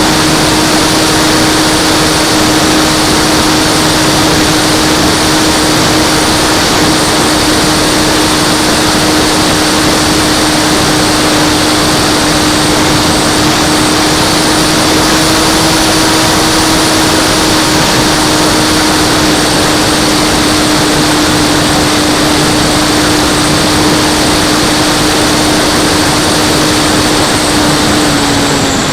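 Flyzone Cessna Corvalis RC model plane's electric motor and propeller in flight: a steady whine over a rush of air noise. The pitch drops a little near the end as the throttle eases.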